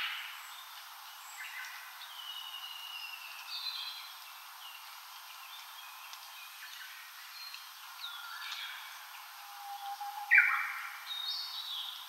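Several wild birds singing and calling in short, overlapping chirps and whistles at different pitches. The loudest is a sharp call sweeping upward about ten seconds in.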